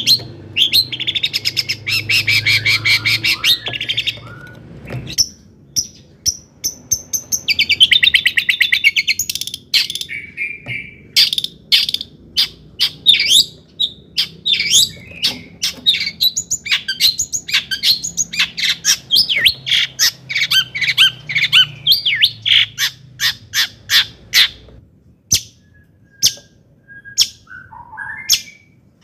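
Long-tailed shrike (cendet) singing a loud, rapid song: stretches of buzzy chattering, then a long run of sharp, quick-fire notes that thins out near the end.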